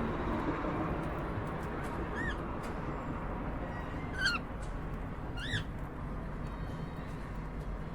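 Cockatiel giving three short chirps, each rising and falling in pitch, about two, four and five and a half seconds in, over a steady background hiss with a few faint small clicks.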